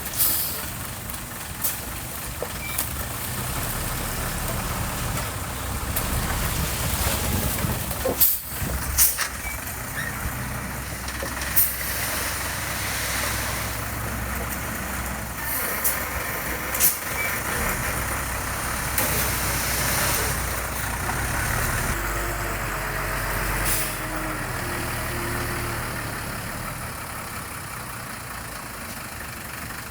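Heavy construction machine's diesel engine running steadily, with sharp hisses or knocks at intervals.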